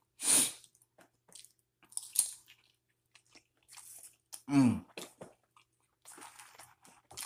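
Close-miked chewing and biting of pizza: irregular wet mouth noises. About halfway through there is a short, falling low hum from the eater.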